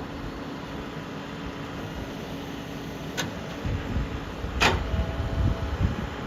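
JCB 3DX backhoe loader's diesel engine running steadily, with a sharp metallic clank about three seconds in and a louder one a second and a half later, followed by heavier low rumbling.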